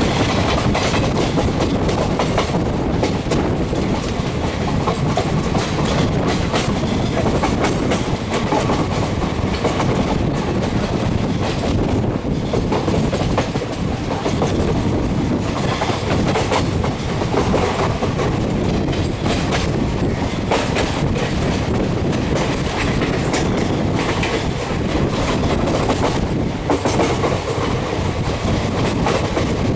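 Train running along the track with a steady rumble, its wheels clattering over the rail joints in frequent short clicks.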